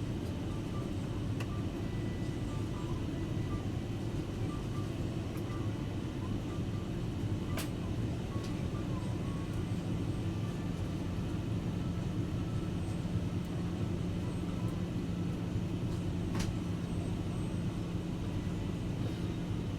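Steady airliner cabin noise: the low rumble of the jet's engines and airflow heard from a passenger seat, with a low hum joining about six seconds in and two faint sharp clicks.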